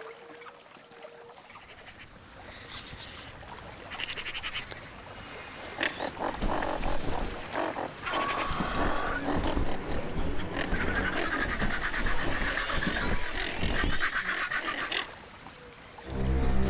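Caracaras squabbling over a carcass, giving repeated harsh, rattling calls that start about four seconds in and stop shortly before the end.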